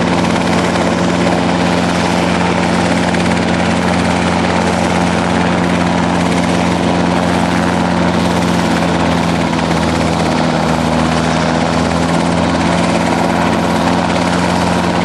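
Robinson R22 Beta II helicopter running close by: its four-cylinder Lycoming piston engine and rotor make a loud, steady drone that does not change in pitch or level.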